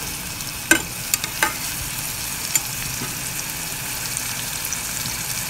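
Onion, tomato and spice masala sizzling in hot oil in a pan. A spatula stirs it, knocking against the pan a few times about a second in.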